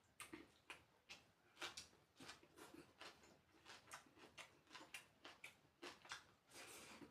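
Faint chewing and mouth smacking while eating, an irregular run of short clicks about three or four a second.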